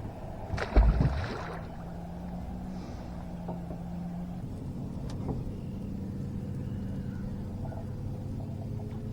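Boat motor running steadily with a low hum. About a second in, a brief loud noisy burst rises over it.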